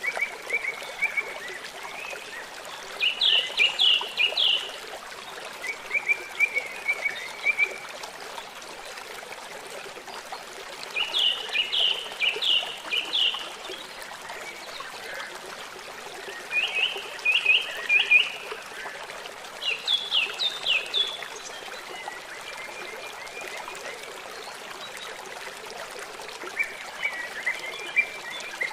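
A songbird singing short phrases of four or five quick notes, repeated every few seconds, over the steady sound of running water.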